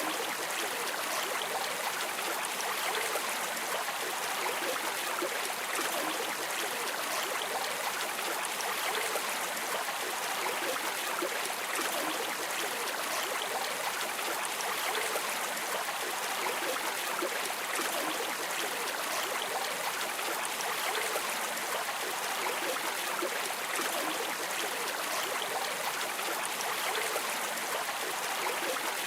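Running water of a stream or river: a steady, even rushing and babbling that does not change.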